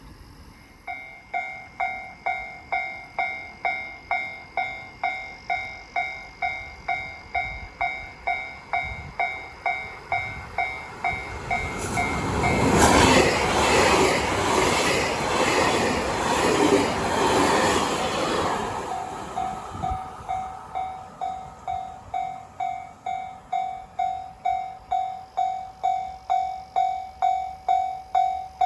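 Japanese level crossing alarm dinging steadily about twice a second. About twelve seconds in, a train passes and its rumble drowns out the alarm for some six seconds; then the dinging carries on.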